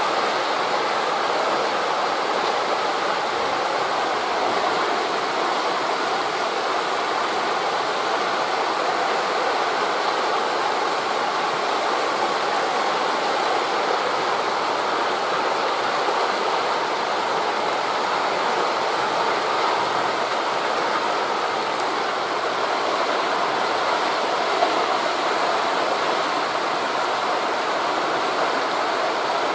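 Wind in forest trees and distant sea surf blending into one steady rush.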